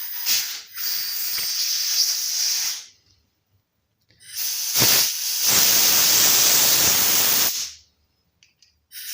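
Compressed air blowing through a chainsaw carburetor to clear out brake cleaner, in loud hissing blasts: two long ones of about three seconds each, and a third starting near the end.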